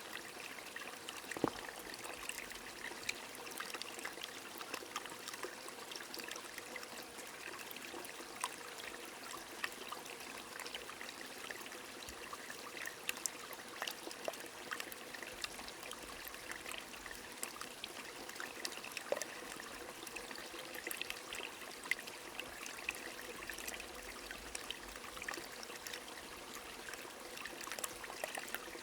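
Stream trickling steadily, with rain falling as many scattered drips and drop ticks over the flowing water.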